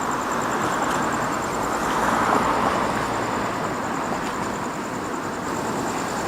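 Road traffic: a car driving past on the street, its tyre and engine noise swelling to a peak about two seconds in and then easing off.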